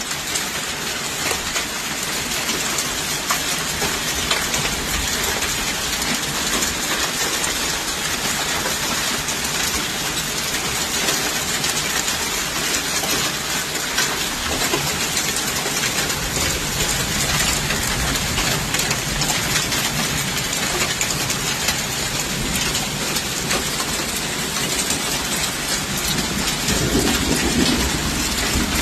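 Heavy hail pelting down, a dense steady clatter of hailstones striking hard surfaces with sharp individual impacts, and a low rumble joining in from about halfway through.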